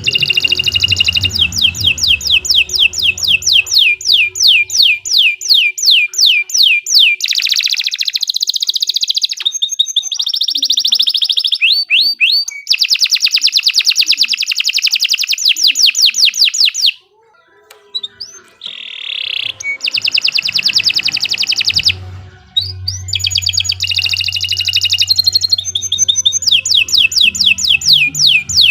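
Domestic canary singing a long, loud song of fast trills and rolls, one rapid run of notes after another, with a brief pause a little past the middle. A low steady hum sits underneath in parts.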